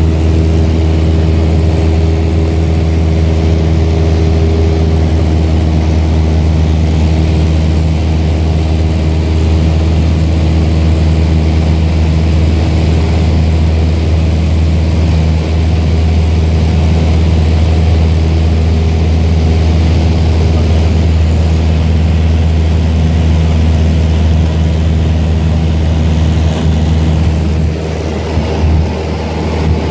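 Cessna 172's piston engine and propeller droning steadily, with a few brief dips in loudness near the end.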